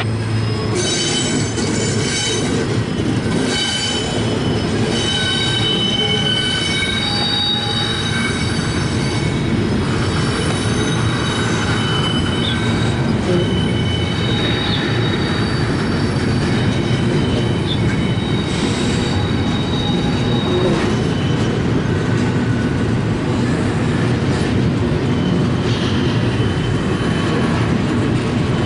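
CSX intermodal train cars rolling past at a crossing: a steady heavy rumble of wheels on rail, with high metallic wheel squeal coming and going. The squealing fits flanges grinding as the train comes off the wye leg through the turnout and curve onto the main track.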